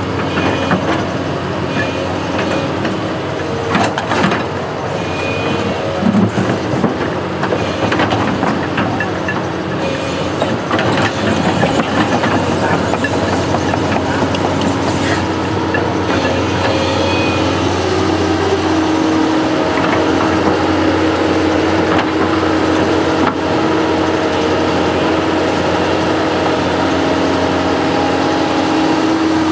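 Construction machine's engine running steadily, with scattered knocks and clanks in the first half. It gets a little louder and steadier about twelve seconds in.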